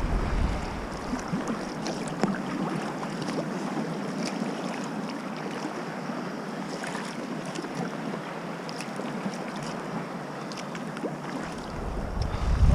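Sea water lapping and splashing around a kayak, with scattered small splashes and drips. Wind buffets the microphone, easing off at the start and gusting back in near the end.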